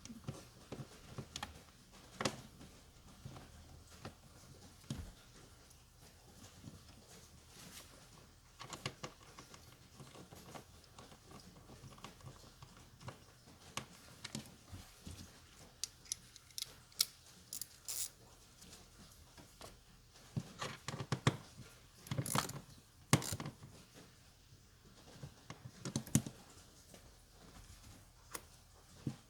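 Scattered light clicks, taps and knocks of hand tools and parts being handled during car battery work, with a cluster of louder knocks about two-thirds of the way through.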